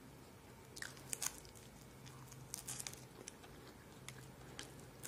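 Faint crackles and clicks of crispy roast chicken wing being pulled apart with the fingers and chewed, a cluster about a second in and another a little before three seconds, over a low steady hum.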